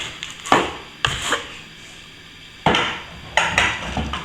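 A run of short scrapes and knocks from hand tools worked against plaster, about seven strokes spread over a few seconds with short pauses between.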